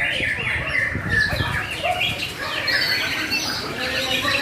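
White-rumped shama (murai batu) singing a fast, varied run of short chirping and whistled notes, over a low rumbling noise.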